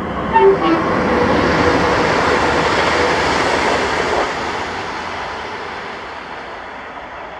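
A train moving through the station, its running noise loudest for the first few seconds and then slowly fading away.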